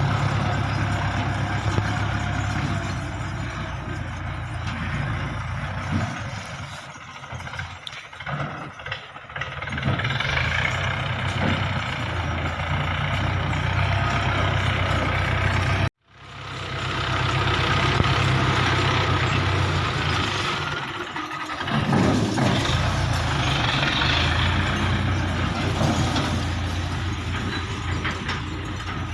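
Belarus 510 tractor's diesel engine running, its level dipping and rising a few times as it works; the sound cuts out for an instant about halfway through and then resumes.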